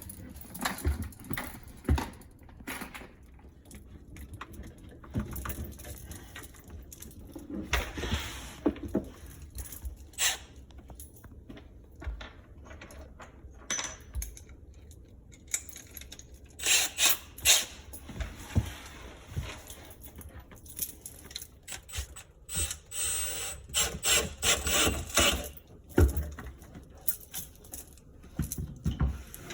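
Garbage disposal parts and tools being handled during installation: scattered knocks, clicks and scraping, with busier spells of rubbing and rattling.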